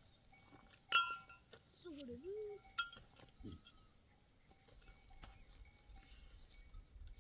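Bells on a flock of sheep and goats clinking a few times, with one short wavering bleat about two seconds in.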